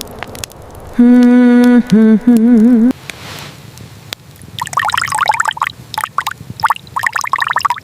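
A loud held hummed note, steady at first and then wavering, cut off abruptly about three seconds in. It is followed near the end by a few seconds of dense crackling, gurgling noise.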